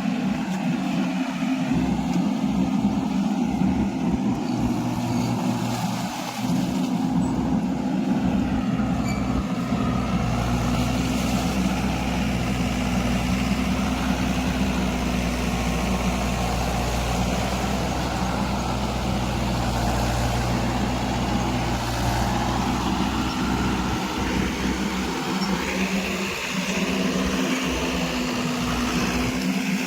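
Tractor diesel engine running steadily, with a deeper low rumble coming in about ten seconds in.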